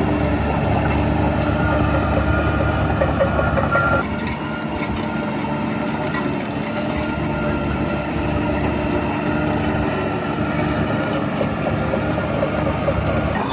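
Heavy diesel engine of earthmoving machinery running steadily, its note and loudness dropping a little about four seconds in.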